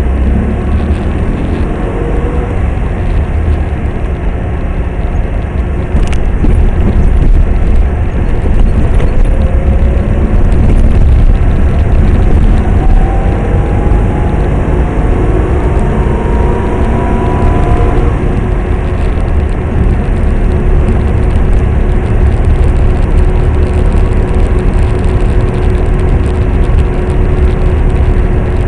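Car running on the road, heard from inside the cabin: a steady low rumble of engine and road noise, with engine tones rising in pitch several times as it speeds up.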